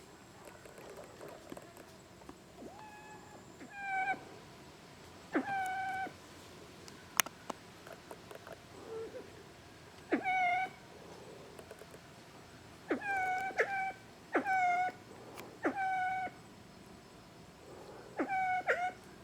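Siamese fireback pheasant calling: about nine short, nasal, mewing calls, each sweeping sharply up and then holding its note, given singly and in quick pairs at uneven intervals. A single sharp click about seven seconds in.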